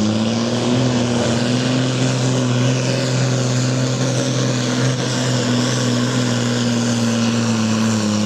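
Pulling tractor's diesel engine running loud and steady at high revs, its pitch dipping briefly near the end.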